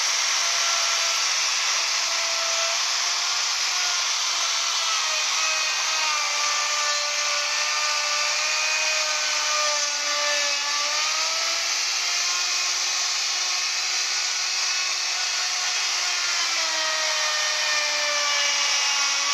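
Handheld wood router running at full speed with a steady high whine and hiss. Its pitch sags slightly about halfway through and again near the end, as it does when the bit is loaded in a cut.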